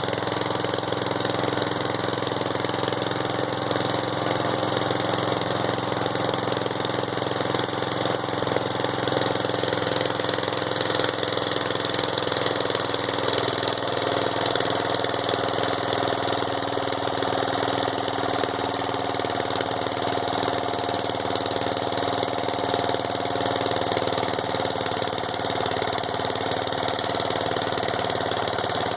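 Riding lawn mower engine running steadily on the last of its fuel vapor, its note shifting slightly about halfway through.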